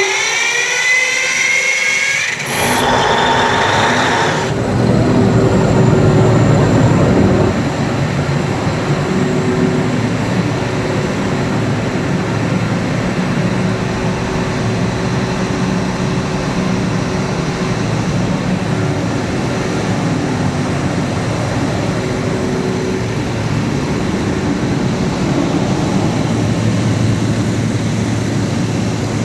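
Cummins diesel generator starting up automatically after the mains supply is cut. A rising whine for about two seconds as it cranks and spins up, a noisy rush as the engine catches, then steady diesel running.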